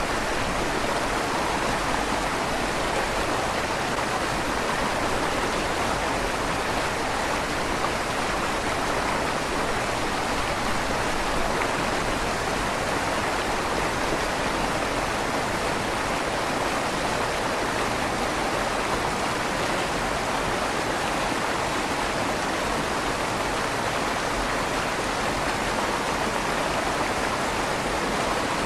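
River water flowing steadily under a stone bridge, a continuous rushing with a slight echo off the stone tunnel walls.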